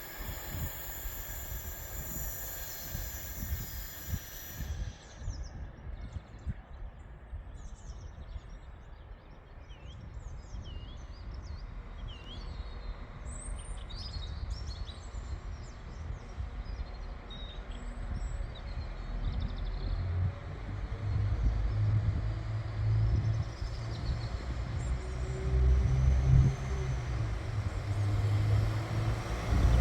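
An electric train's high whine dies away in the first few seconds, leaving birds chirping over low station background. Then a train's low rumble builds steadily toward the end.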